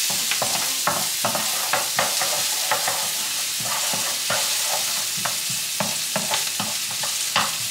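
Chopped onion and garlic sizzling in oil in a nonstick frying pan, sautéing until lightly browned. A wooden utensil scrapes and taps against the pan about two or three times a second as it stirs them.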